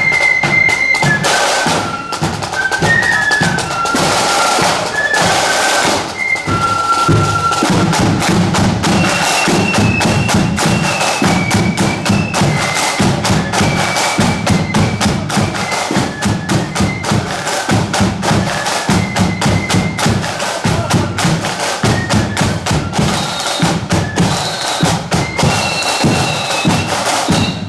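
Marching flute band playing a march: flutes carry the tune over rapid snare-drum rolls and a steady bass drum.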